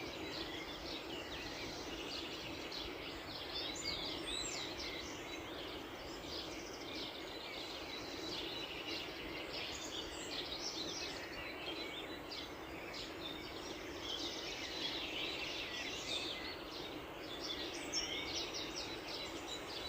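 Many small birds chirping and trilling together without a break, a dawn chorus, over a steady low background rush.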